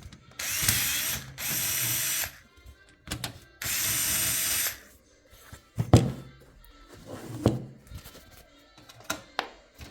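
Electric screwdriver running in three short bursts of about a second each, backing out screws from a PC case, followed by a few sharp clicks and knocks of small metal parts.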